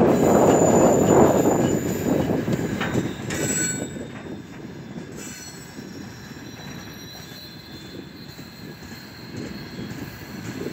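Freight train of open gondola wagons rolling past on the rails, the wheel and rail noise loud for the first couple of seconds, then settling quieter. A brief high wheel squeal comes about three and a half seconds in, and a faint thin squeal lingers later on.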